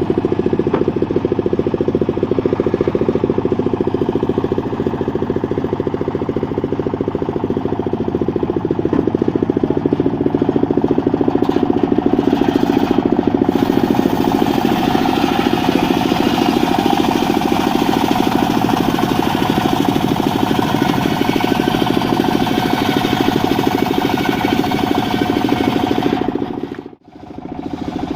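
Engine-driven circular sawmill running steadily: the engine's rapid, even firing under the drone of the spinning blade. The sound briefly cuts out near the end.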